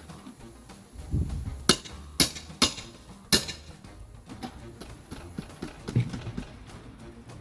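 Sharp knocks and cracks of a tool prying a piece off the house to reach a honeybee hive inside, four hard hits in quick succession a couple of seconds in.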